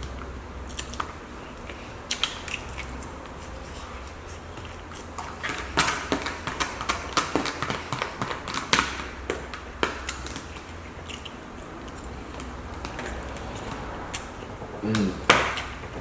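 Close-miked chewing and lip-smacking: wet clicks and smacks that come thickest and loudest in the middle. A short vocal sound comes near the end.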